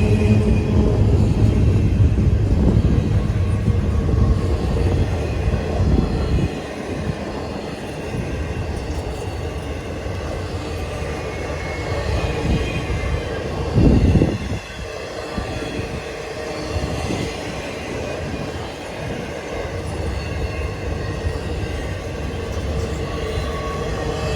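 Long freight train rolling past, with the steady rumble and rattle of wheels on the rails. It is heavier and louder for the first six seconds, then settles into a quieter, steady rolling, with one loud thump about fourteen seconds in.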